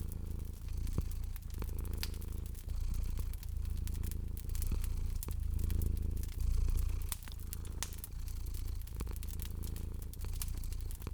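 A cat purring, a low rumble that swells and dips with each breath, over a wood fire crackling with frequent sharp pops.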